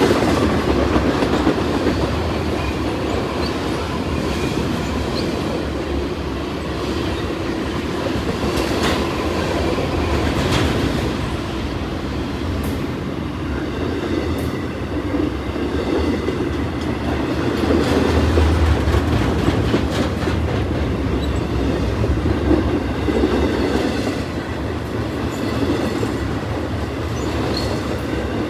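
A freight train's cars rolling past at close range: steel wheels rumbling and clacking over the rail joints in a steady, loud stream.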